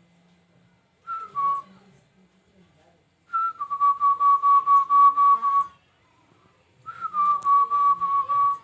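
Three whistled phrases, each dropping from a higher note to a held lower one that wavers in quick pulses: a short one about a second in, a longer one of about two and a half seconds, and a third near the end.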